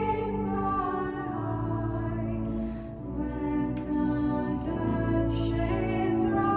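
A hymn sung slowly by a choir of women's voices, with long held notes and soft sung consonants.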